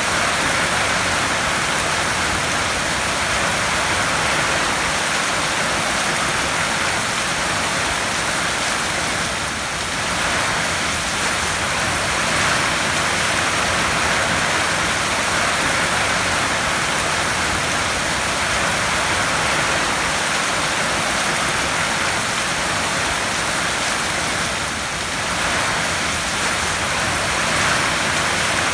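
Heavy rain falling on a tin roof: a steady, dense hiss that eases slightly for a moment twice.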